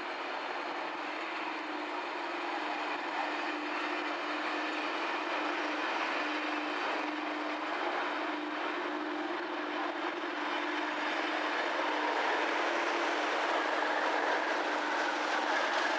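Test-train coaches rolling slowly past at close range, with steady wheel-on-rail rolling noise over a steady low hum. The noise grows louder near the end as the rear diesel locomotive draws near.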